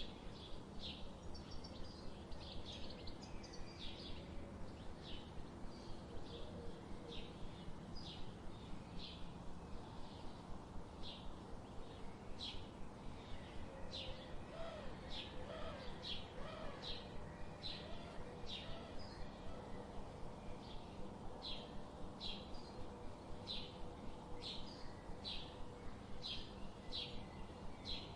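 Birdsong: a steady, quick series of short, high chirps repeating over and over, with a faint lower warbling call in the background.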